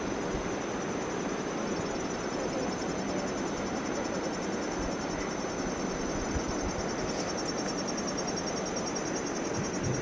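Steady rush of the waterfall's falling water, with a continuous high, rapidly pulsing insect trill from crickets or similar insects over it.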